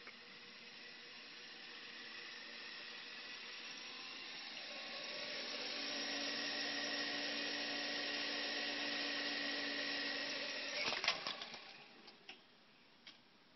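Revox A77 reel-to-reel tape recorder running with a rushing hiss that swells over the first several seconds and then holds steady. About eleven seconds in comes a cluster of clicks and clunks as the noise dies away, then two single clicks.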